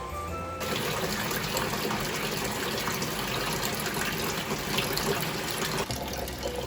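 Water running steadily from a tap, starting about half a second in and easing off shortly before the end, with background music under it.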